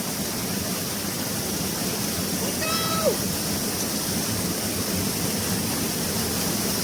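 Chilanthiyar waterfall rushing steadily, the water coming down with great force. About three seconds in, a single short call whose pitch falls is heard over it.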